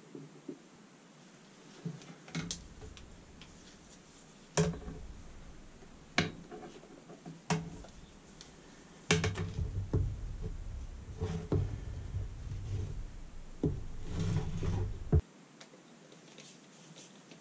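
Scattered sharp clicks and knocks of small metal and plastic parts being handled and fitted during reassembly of an air suspension compressor, about eight in all, with a low rumble of handling noise between some of them.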